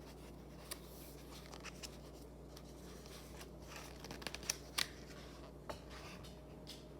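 Faint paper rustling and a few soft clicks over low room hum: a picture book's page being handled and turned.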